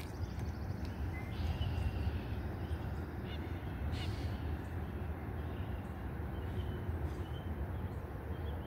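Birds calling faintly with short high chirps over a steady low hum, with a sharp click right at the start and a few faint ticks midway.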